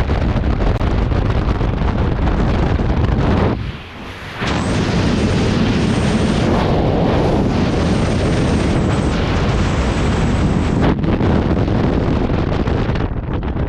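Skydiving freefall: loud rushing wind buffeting the camera's microphone, with a brief lull about four seconds in and a faint high whistle through the middle stretch.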